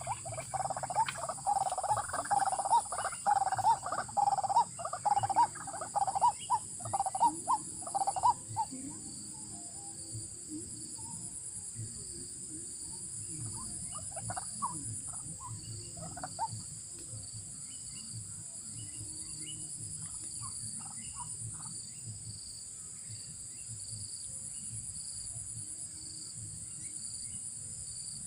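White-breasted waterhen (ruak-ruak) calling: a loud, fast run of repeated croaking notes for about eight seconds, then a few fainter short call groups. Insects shrill steadily throughout.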